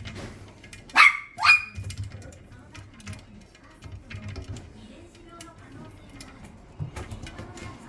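A puppy barking twice in quick succession about a second in: two short, high-pitched yaps about half a second apart.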